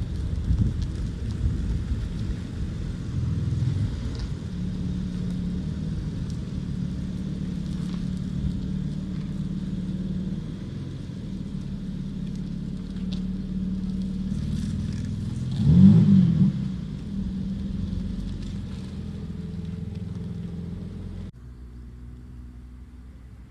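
BMW M4 CS prototype's twin-turbo inline-six running at speed, the engine note fairly steady, swelling to its loudest as the car passes close about two-thirds of the way through. Near the end the sound cuts abruptly to a quieter engine.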